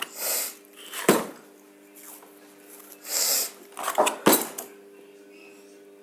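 Workbench handling noises: two short, hissy rasps and three sharp clicks or knocks over a steady low hum.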